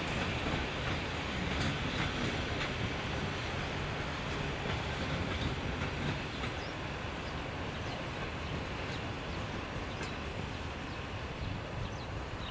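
A passenger train hauled by TEP70BS diesel locomotives rolls slowly away over station switches: a steady rumble with scattered wheel clacks, easing off a little toward the end.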